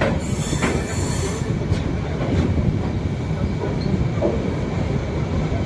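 Passenger express train rolling along the track: a steady low rumble of coach wheels on rail, with a few clicks over rail joints and a brief high hiss near the start.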